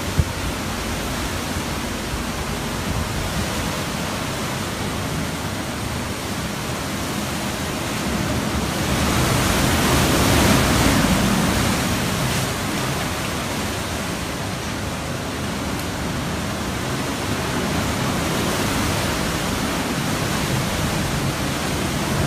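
Hurricane Irma's wind, with driving rain, making a steady rushing noise that swells louder for a few seconds around the middle.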